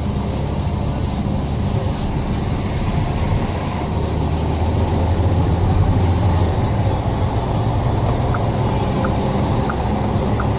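Renault Grand Scénic's diesel engine running steadily as the car is driven, heard from inside the cabin, swelling a little about halfway through. From about eight seconds in, a light regular ticking joins it, about one and a half ticks a second.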